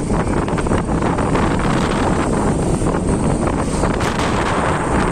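Wind rushing over the microphone on a moving motorcycle, a loud steady roar mixed with vehicle noise.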